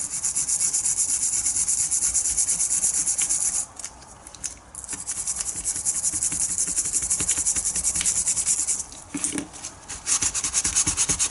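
Hand scrubbing of a greasy Mini front suspension component wet with brake cleaner: rapid, even back-and-forth scratchy strokes, in three spells with short pauses about four and nine seconds in, to shift the worst of the grease.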